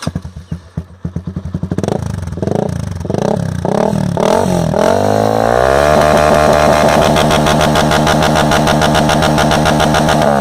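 Honda CB Twister single-cylinder engine through a Jeskap GP Carbon aftermarket exhaust, very loud: idling briefly, blipped several times in quick rising-and-falling revs, then held at high revs for about five seconds before dropping back near the end.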